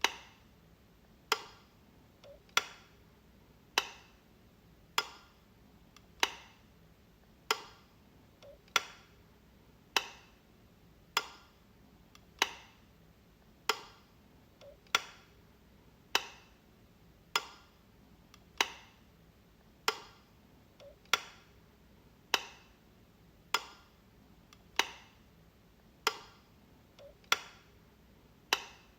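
Light switch clicking, one sharp click about every one and a quarter seconds, with now and then a faint softer click just before one.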